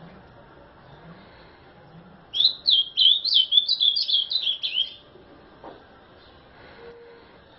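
Ultramarine grosbeak (azulão) singing one fast, warbled phrase of about ten quick sliding notes, starting about two seconds in and lasting about two and a half seconds.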